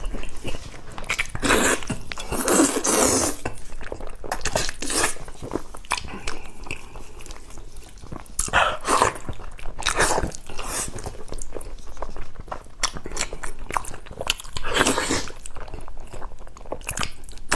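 A man biting and chewing a pork knuckle, the eating sounds coming in irregular bouts.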